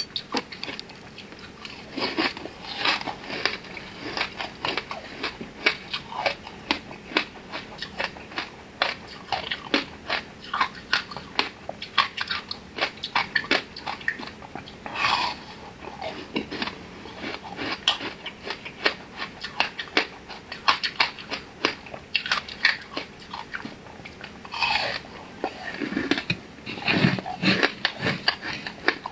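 Close-miked chewing and biting of a soft flower-shaped layered cake: a quick, continuous run of mouth clicks and smacks, with a few louder stretches about halfway through and near the end.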